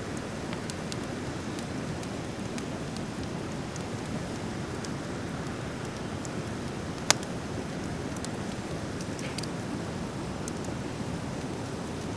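Driftwood campfire burning: scattered small crackles over a steady low rush, with one sharp pop about seven seconds in.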